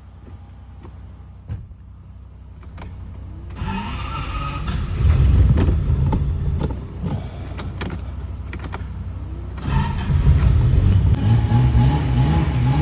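Ferrari 400i's V12 engine being cranked by its starter with a rising whine a few seconds in, then running unevenly, growing louder about ten seconds in: a first start after 35 years laid up.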